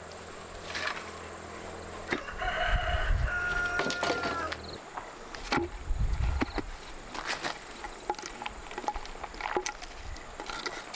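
A rooster crows once, starting about two seconds in, its call ending on a long held note, amid scattered knocks and clatter.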